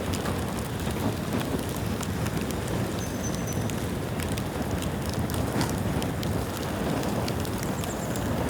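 Bamboo bonfire burning: a steady rushing noise with many scattered sharp crackles from the burning bamboo.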